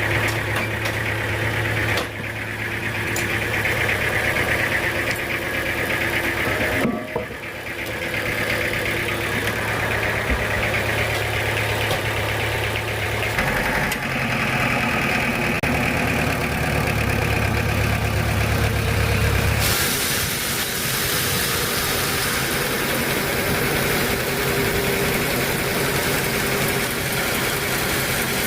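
Sawmill machinery running with a steady, engine-like hum that shifts abruptly in tone several times.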